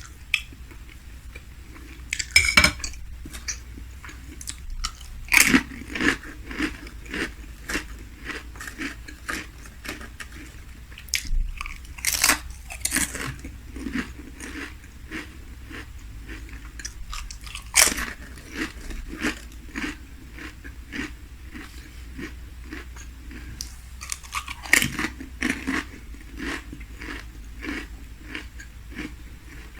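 Close-miked chewing and biting of food, with repeated sharp crunches and a few louder bites spread through.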